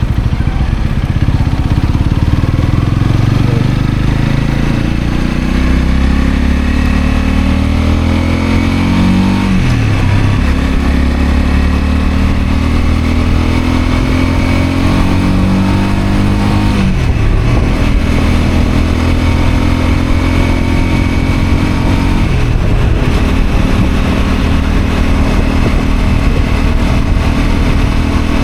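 Honda CL250's single-cylinder engine under way, its pitch climbing as it accelerates and dropping sharply three times as it shifts up through the gears, then holding a steady pitch near the end.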